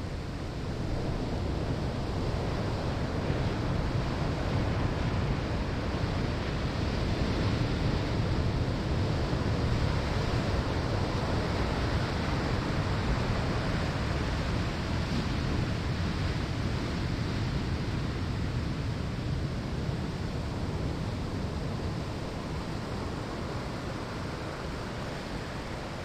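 Ocean surf breaking on a sandy shore: a continuous wash of waves that swells over the first few seconds, is loudest midway, and slowly ebbs toward the end.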